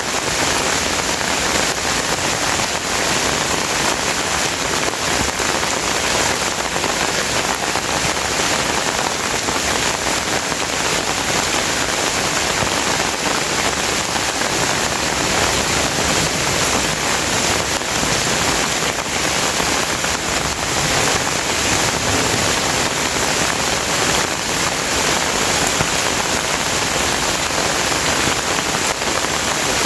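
Steady, loud rain falling, an even dense hiss with no thunder or single events standing out.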